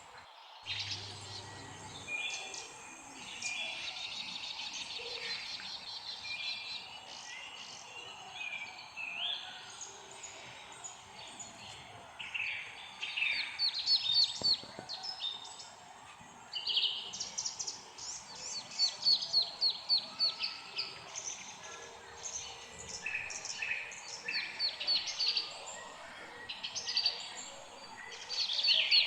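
Several birds chirping and singing together: quick trills and runs of short, high notes that overlap, growing busier and louder in the second half.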